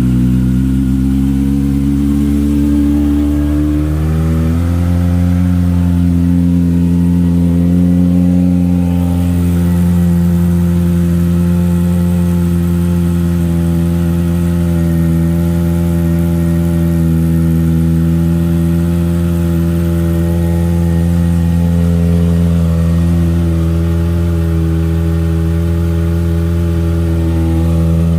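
Kawasaki ZX-25R's four-cylinder engine idling through an Akrapovic exhaust just after a cold start. Its pitch climbs over the first four seconds, steps up once, then holds steady.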